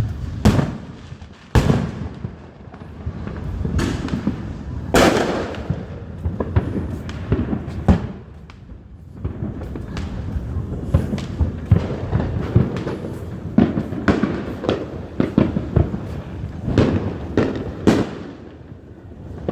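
Fireworks going off: an irregular string of sharp bangs and crackles over a continuous rumble, the loudest cracks about one and a half seconds and five seconds in.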